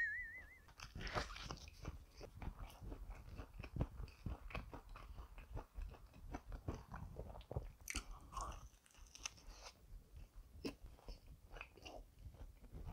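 Close-up eating sounds: faint, irregular crunching and chewing of pizza crust, with small bites and mouth clicks, a little louder about eight seconds in.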